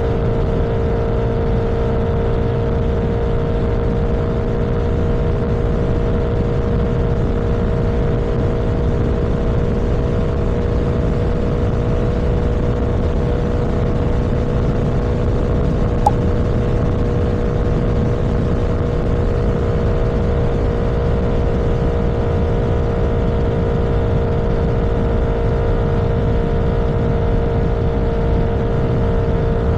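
A vehicle cruising at a steady speed: an even engine hum over road and wind rumble, with one brief click about halfway through.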